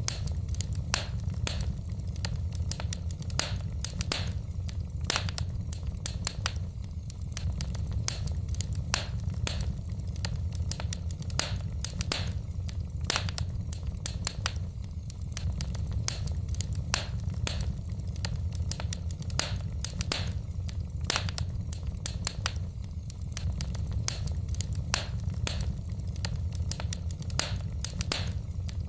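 Wood fire burning in a fireplace, the logs crackling with frequent irregular sharp pops and snaps over a steady low rumble of the flames.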